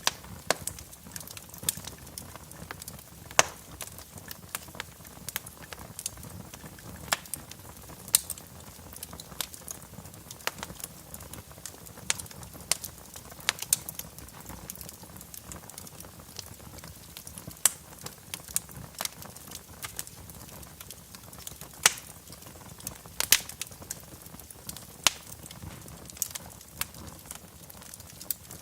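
Wood fire crackling in a fireplace: irregular small snaps several times a second, with a few louder pops, over a low steady hiss of burning.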